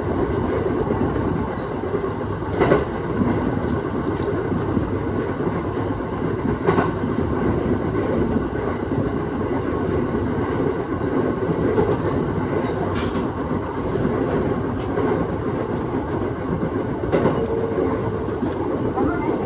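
Aoimori Railway 701-series electric train running at speed, heard from inside the car: a steady rumble of wheels on rail with a few sharp, irregularly spaced clicks from rail joints.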